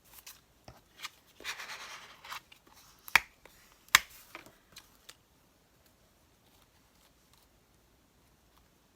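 Paper being handled and rubbed down on a collage page: a brief rustle, scattered soft ticks and two sharp clicks about a second apart, then quiet for the second half.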